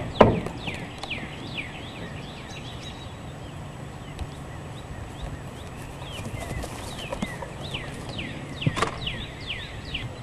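Wild birds singing in runs of quick, falling chirps. A loud thump comes just after the start and another near the end.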